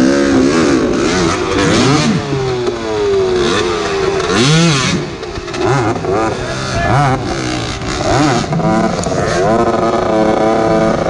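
Dirt bike engines revving hard on a hard enduro course, their pitch rising and falling again and again as the throttle is worked, at times two bikes at once.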